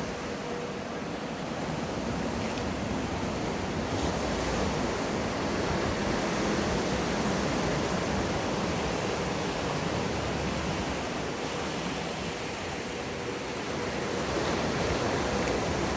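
Wave pool surf: a steady rush of breaking, churning water that swells and eases. Near the start and the end a faint steady hum sounds under it.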